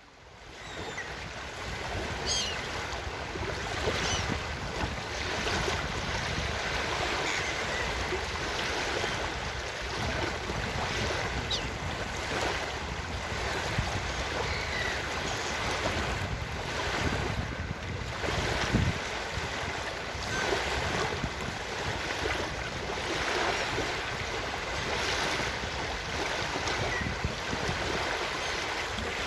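Ocean surf washing steadily on a beach, fading in at the start, with a few brief gull calls here and there.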